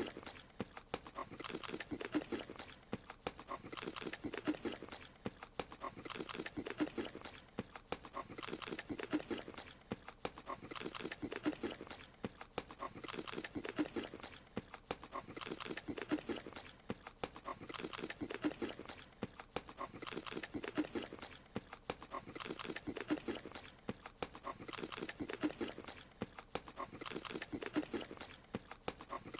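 Cartoon creature's eating noises: chewing and munching with quick smacking clicks, one short cycle repeating about every two seconds.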